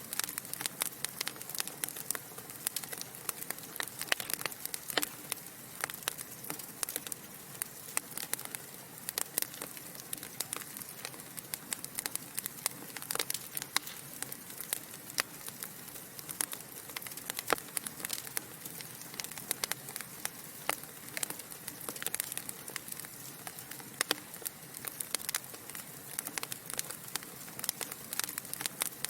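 Wood fire burning in a fireplace, with a steady soft hiss and frequent irregular crackles and sharp pops from the logs.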